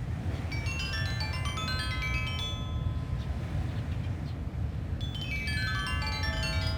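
Sanukite stone xylophone, tuned to 432 Hz, playing quick pentatonic runs of long-ringing struck notes: one climbing about a second in and one falling near the end. Beneath it runs a steady low rumble of wind blowing on the beach.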